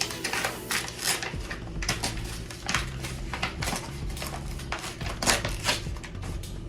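Gift packaging being handled and opened: a run of rustles, crinkles and sharp clicks, irregularly spaced.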